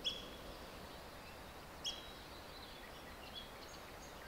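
Faint outdoor ambience with a few short bird chirps: a clear one at the start and another about two seconds in, with fainter calls later.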